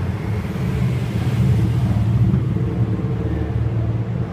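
Nissan Fairlady Z S30 straight-six engine on sidedraft carburettors running at idle, a deep steady rumble that swells briefly in the middle.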